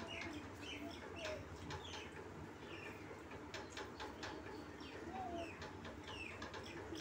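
Birds chirping in short, repeated calls about once a second, over small clicks and scrapes of people eating rice by hand from steel plates.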